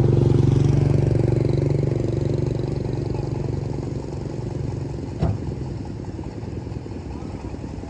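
Jeep engine running steadily, its level easing down over the first few seconds as it settles. A single sharp knock comes about five seconds in.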